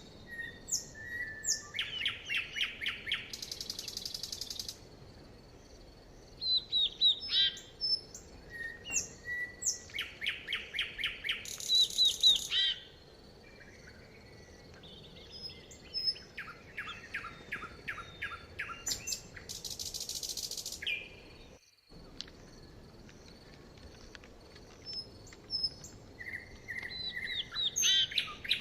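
Several songbirds singing and calling: rapid trills, short chirps and down-slurred whistled notes, repeated in phrases, with a few short high buzzes between them. The sound drops out abruptly for a moment about three-quarters of the way through.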